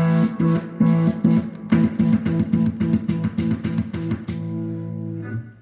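1971 Epiphone ET270 electric guitar, its neck mini humbucker played through a 5F4 tube amp with light reverb and compression: a sustained chord rapidly cut on and off, about five or six times a second, by the signal-cut switch for a stuttering effect, then left to ring before stopping shortly before the end.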